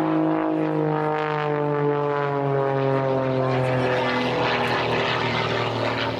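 Piston propeller engine of an aerobatic display aircraft flying past, its drone sliding steadily lower in pitch as it passes.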